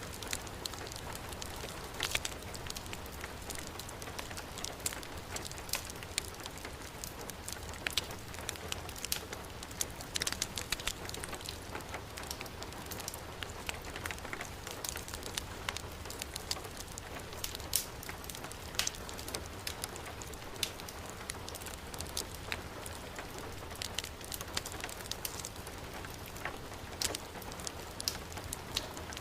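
Steady rain hissing with a wood fire crackling, its sharp pops coming at irregular moments.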